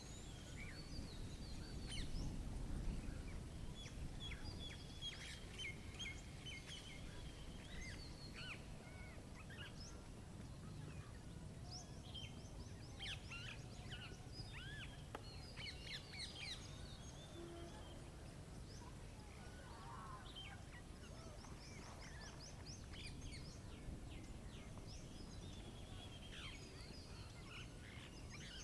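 Songbirds chirping and trilling, with fast runs of repeated high notes and short rising and falling calls, over a faint low background rumble that swells briefly about two to three seconds in.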